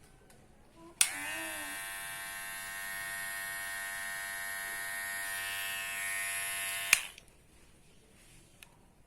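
Kemei KM-809B cordless hair clipper switched on with a click about a second in, its motor and blade buzzing steadily for about six seconds, then switched off with another click.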